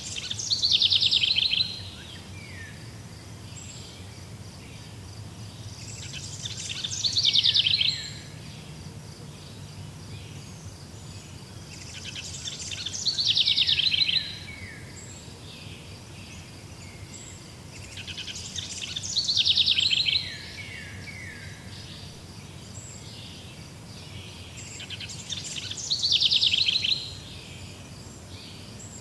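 A songbird singing the same short phrase five times, about every six seconds: each phrase is a quick run of notes that falls in pitch over a second or two. Beneath it runs a faint, steady, high trill.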